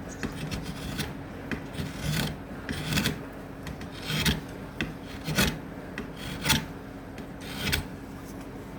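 Hand file or rasp scraping across acacia wood in repeated strokes, about one a second, shaping a wooden comb.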